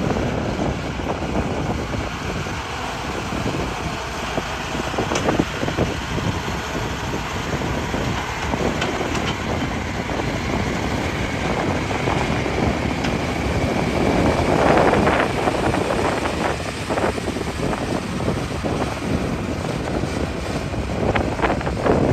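Hitachi excavator running under load as it digs rock, with scattered knocks and clatter. The noise swells about fifteen seconds in and again near the end.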